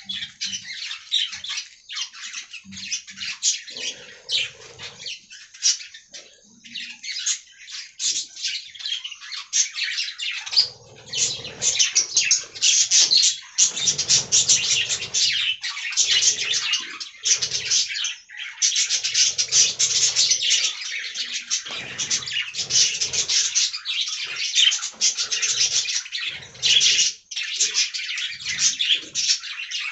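Budgerigars chattering and warbling: a dense run of rapid chirps and squawks that grows louder and busier about ten seconds in.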